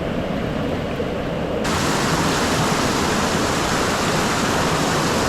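Mountain stream rushing steadily over rocks: muffled and rumbling at first, then about a second and a half in the sound suddenly turns into a full, bright hiss of fast water.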